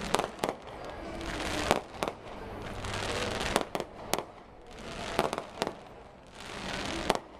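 Aerial fireworks shells bursting overhead: about ten sharp bangs, some in quick pairs, with a hiss that swells between the bursts.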